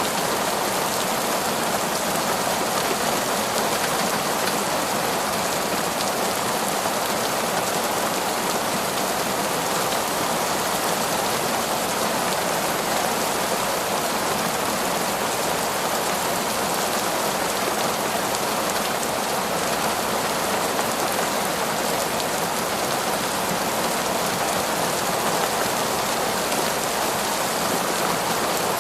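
Heavy, torrential rain falling through forest trees, a steady, even hiss without let-up.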